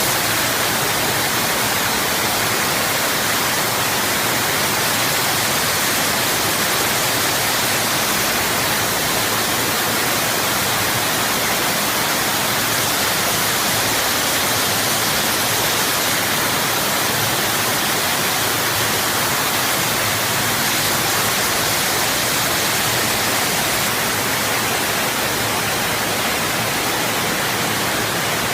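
Waterfall pouring: a loud, steady rush of falling water that holds even throughout, with no breaks or changes.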